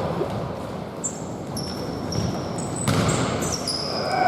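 Basketball game play in a gym: sneakers squeaking on the court over and over, with one sharp thud about three seconds in.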